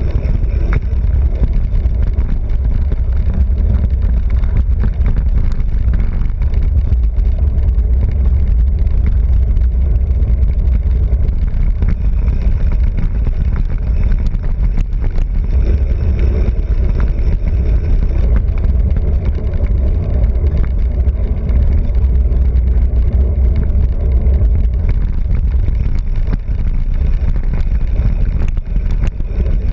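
Steady wind rumble buffeting the microphone along with road noise from a fast bicycle ride, low and even throughout.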